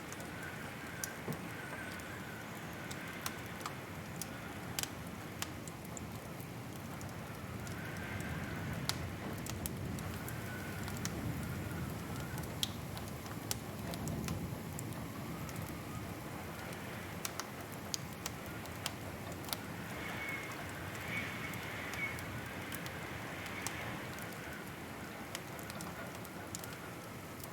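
Wood fire crackling: irregular sharp pops over a steady low rush of flame, with a faint wavering whistle now and then.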